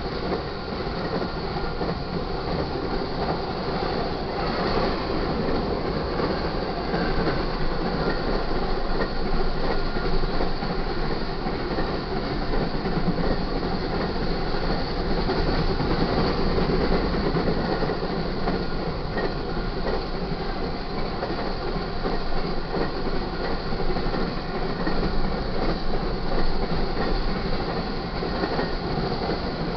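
Cars of an intermodal freight train rolling past at speed: steel wheels running on the rails in one continuous, steady noise.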